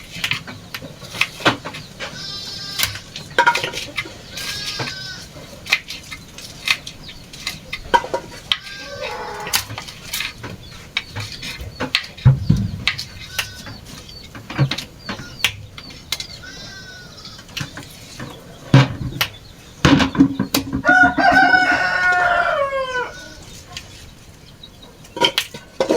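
Chickens calling in short high notes, and a rooster crowing once about twenty seconds in, the loudest sound. Sharp knocks and clicks are scattered throughout.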